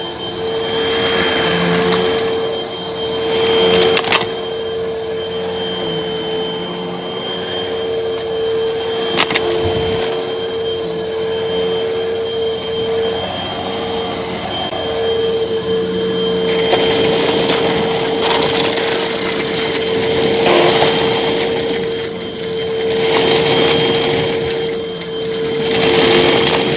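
Hoover vacuum cleaner running steadily, with a constant motor hum and a higher whine. A rush of air swells and fades every few seconds as it is pushed back and forth. Sharp clicks about four and nine seconds in are light crunchy debris being sucked up.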